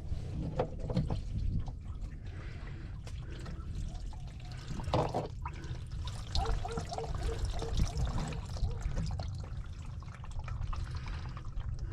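Used engine oil pouring from the drain hole of a 2002 Dodge Durango's oil pan into a drain pan, a steady trickling stream.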